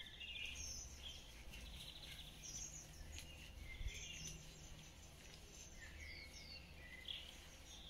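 Faint birdsong: many short chirps and whistles from small birds, over a low steady background rumble.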